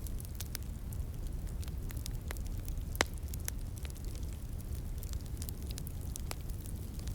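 Wood fire crackling, with scattered small pops and one sharper, louder pop about three seconds in, over a steady low rumble.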